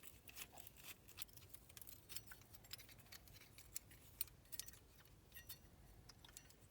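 Faint, irregular light clicks and taps of small parts being handled: the gas furnace's just-removed igniter and its wiring being worked free and turned over in the hands.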